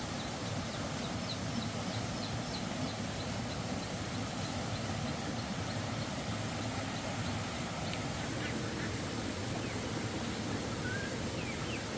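Steady rushing background noise with faint, short high chirps of birds scattered through it, as from poultry around a farmyard.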